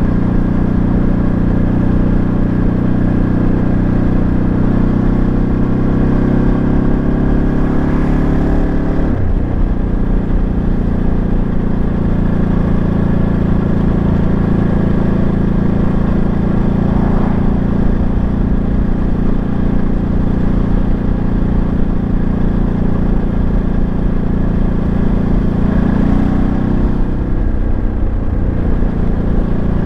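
Ducati Monster 937's Testastretta 937 cc L-twin engine running under way. Its pitch climbs slowly, drops abruptly about nine seconds in, holds steady, and changes again near the end.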